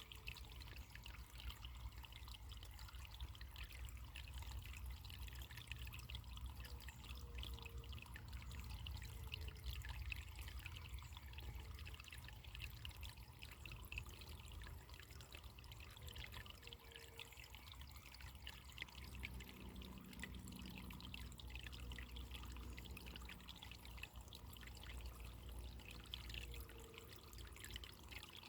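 Running water of a small stream trickling steadily, with a low rumble beneath.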